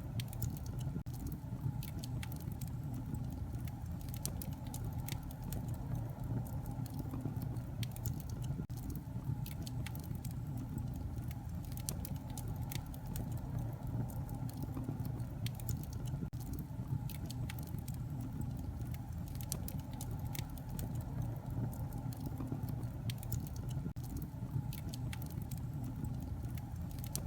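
Wood fire crackling in a fireplace: a steady low rumble of flame with frequent irregular sharp pops and snaps.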